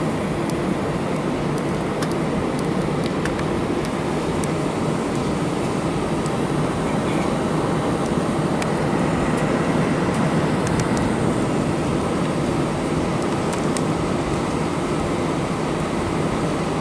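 Jet airliner cabin noise on the runway at the start of the takeoff: a loud, steady engine roar and rumble with small scattered rattles from the cabin, swelling slightly about halfway through.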